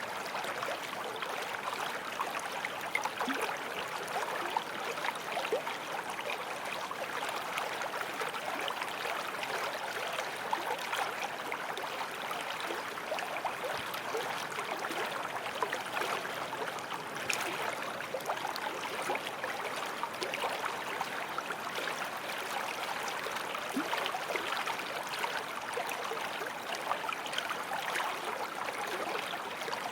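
Forest stream flowing and babbling over stones, a steady splashing and gurgling rush of water.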